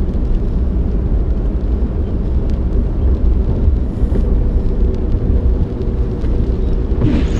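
A moving vehicle heard as a loud, steady low rumble.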